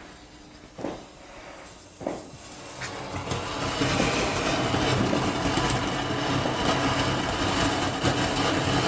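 Triangular snowflake firework fountain, lit, catching and then burning with a steady spraying hiss that swells up from about three seconds in and holds. Two short clicks come before it.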